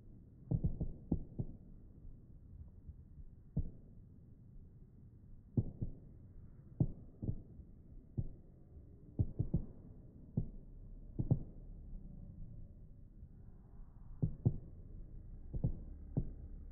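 Distant fireworks shells bursting, heard as irregular low thumps every second or so, some in quick pairs or clusters, played back in slow motion.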